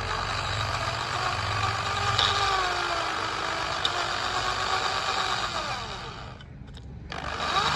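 Small electric motor and gear train of a handmade RC tipper truck running, a whine that rises and falls in pitch as the speed changes over a gear-noise hiss. It drops away about six seconds in and starts again abruptly a second later.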